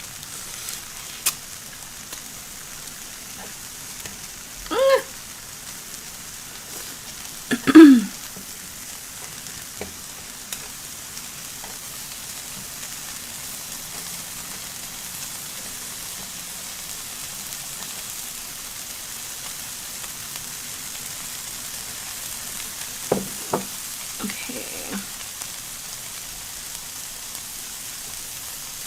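Shrimp and vegetables sizzling steadily on an electric grill. A few short pitched vocal sounds cut in over it, the loudest about eight seconds in, dropping in pitch.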